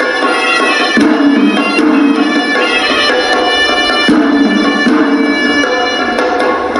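Hewisi temple music: a horanewa, a shrill double-reed pipe, playing a continuous melody over traditional Sri Lankan drums beating a steady rhythm.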